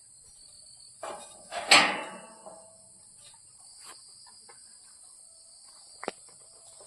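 Steady high chirring of insects, with a loud bang with a ringing tail a little under two seconds in and a short sharp click near the end.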